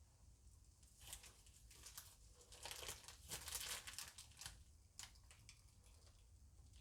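Faint crinkling of a plastic bag being squeezed and handled, a run of small crackles that builds to its densest a little past the middle and then thins out.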